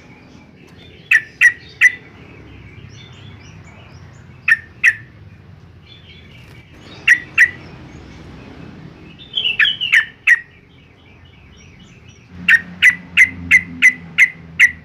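Yellow-vented bulbul giving loud, sharp call notes in quick pairs and threes, with softer chattering between them. Near the end comes a fast run of about seven notes.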